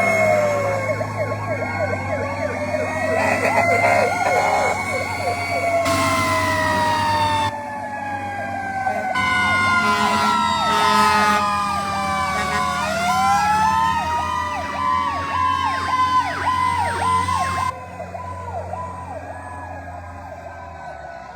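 Several fire truck sirens sounding together, slow wails rising and falling overlapped with fast yelps, over the low drone of the trucks' engines.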